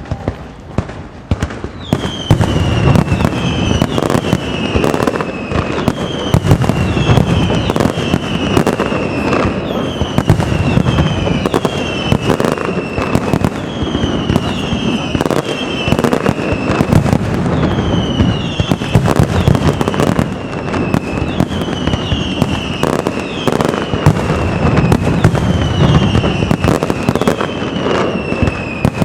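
Castillo fireworks display: a dense, continuous barrage of aerial shells and firecracker bursts, picking up sharply about two seconds in, with a string of whistling fireworks, each whistle falling in pitch.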